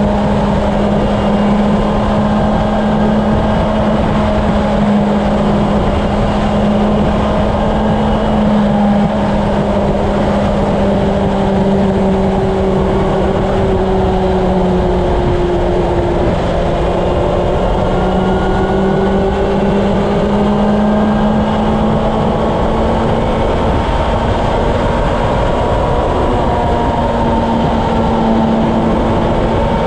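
Honda CB750 inline-four engine running at steady highway speed, with wind rushing over the action camera's microphone. The engine note sags a little about halfway through and picks up again.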